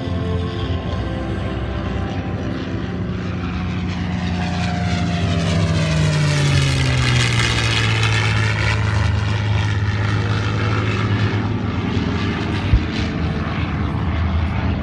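A P-51 Mustang's Packard-built Merlin V-12 makes a low pass. The engine grows louder to a peak about 7 seconds in, and its pitch drops as it goes by, then it fades a little. There is one short knock near the end.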